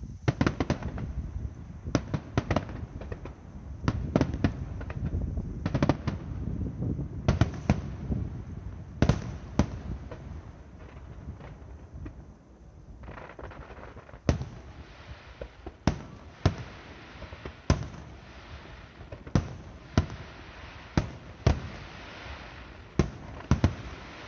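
Aerial fireworks shells bursting: a dense run of sharp bangs with rumbling low reports in the first half, then, from about halfway, single bangs roughly every second or so over a steady hiss.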